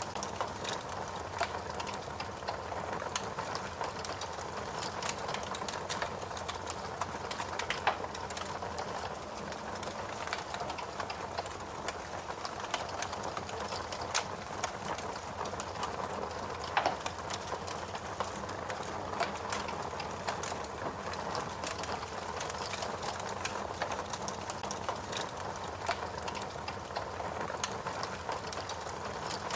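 Fire crackling, with a steady stream of small pops and ticks and two louder snaps, about eight and about seventeen seconds in.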